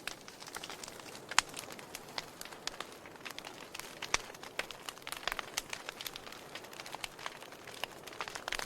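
Wood fire crackling: irregular sharp pops and snaps over a soft hiss, with a louder pop about a second and a half in and another about four seconds in.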